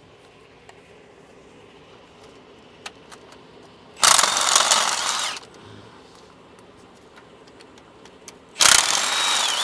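A cordless power tool runs in two bursts, about a second and a half and then about a second, backing out the transmission bell-housing bolts. A few light clicks of tools and parts come in between.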